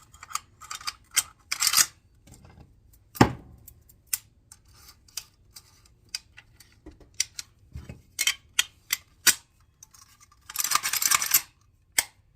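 Metal rifle parts clicking and clacking as a Saiga rifle is put back together by hand, with one heavier knock about three seconds in and a short rasping scrape near the end.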